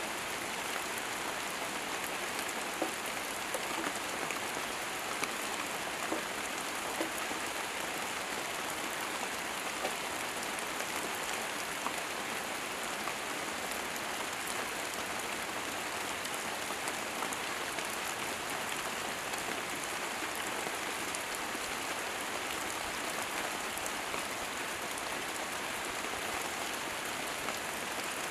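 Steady rain falling on leaves and undergrowth, an even hiss with occasional louder drops ticking out of it.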